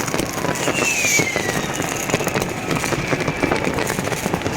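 Fireworks going off in a dense, continuous crackle of bangs and pops, with a whistle that falls in pitch about a second in.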